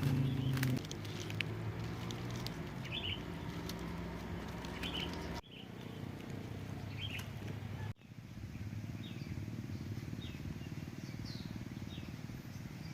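Short, high bird chirps repeating about once a second over a steady low background noise. The sound breaks off abruptly twice.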